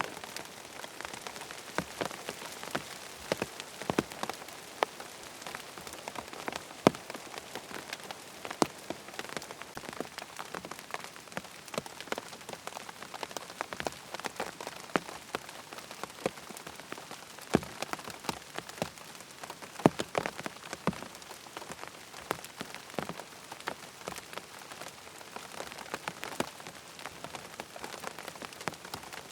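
Steady rain pattering on tent fabric: a constant hiss with many sharp, irregular drop impacts, some louder single drops standing out.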